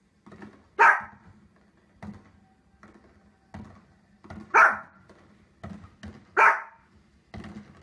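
Small dog barking sharply three times, about a second in, at four and a half seconds and at six and a half seconds, with softer short thumps and pops in between.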